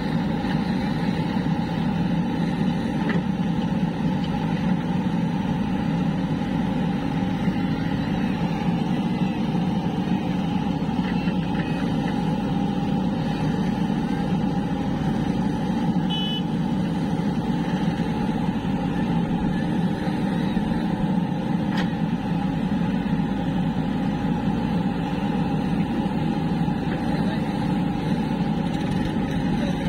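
Heavy diesel machinery, a backhoe loader and tractors, running steadily with a constant low engine drone.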